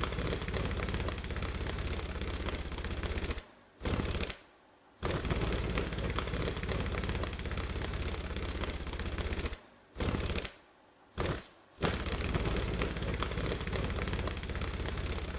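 Budgie flapping its wings hard in place, a fast, steady fluttering that runs in long bouts and stops briefly twice.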